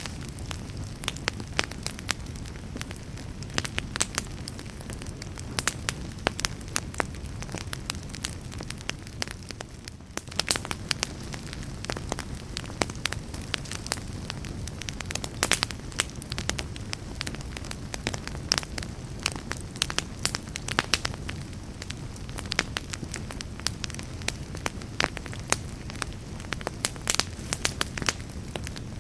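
Wood fire burning, with a steady low rumble and many irregular sharp crackles and pops.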